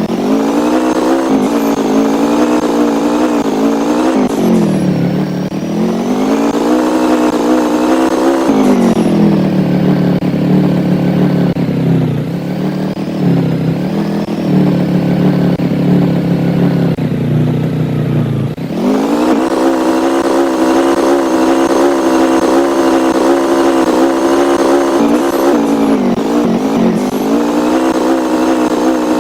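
A vehicle engine running with its pitch rising and falling as it speeds up and slows, settling lower for several seconds in the middle before picking up again about two-thirds of the way through.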